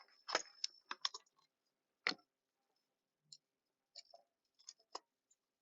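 Irregular sharp clicks and clacks of camping gear being handled and set down, with two louder knocks, one just after the start and one about two seconds in, then a few scattered light ticks.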